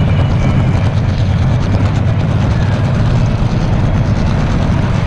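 Steady rumbling noise of a train running along the track, with no breaks or distinct events.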